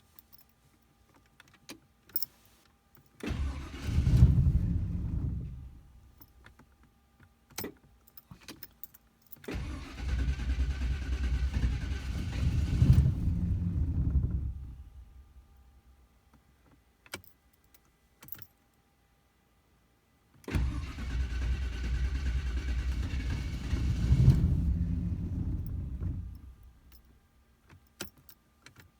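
A Jaguar engine being cranked cold with no choke and no pedal pumping: it is a hard start. There are three separate start attempts, each a few seconds of engine noise that fades away again, with light clicks in the quiet between them.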